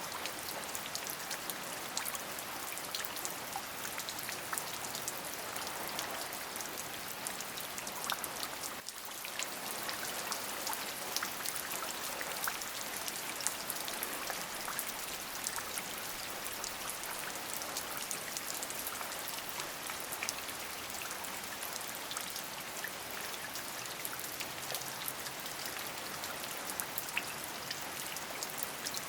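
Steady rain falling, an even hiss dotted with many separate drop hits. The level dips briefly about nine seconds in.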